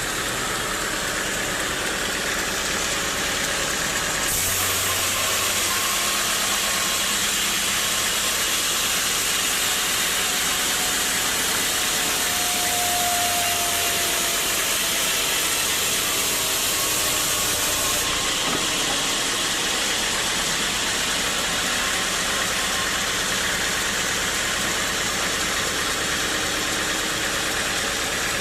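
Sawmill machinery running steadily, with a brighter hiss joining about four seconds in and dropping away about eighteen seconds in.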